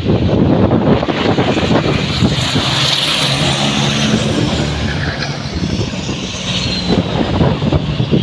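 A pack of diesel race trucks running hard and passing by together, a dense mass of engine noise with one engine's pitched drone standing out in the middle. It eases off a little toward the end as the pack moves away.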